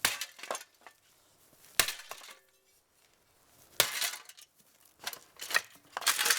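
Sharp blows smashing a Lifestyle five-blade ceiling fan, glass and metal parts clinking and breaking. Three separate strikes a couple of seconds apart, then a quicker run of hits and rattling debris near the end.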